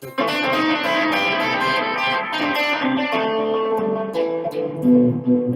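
Electric guitar played through a distortion effect, long notes held and ringing on thick with overtones, a new note every second or so. It comes in suddenly just after the start.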